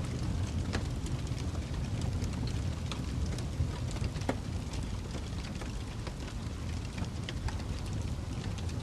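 Wood fire burning in a fireplace: a steady low rumble with irregular crackles and pops.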